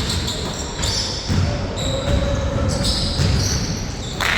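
Basketball being bounced on an indoor court during play, with short high tones above it and a sharp impact near the end.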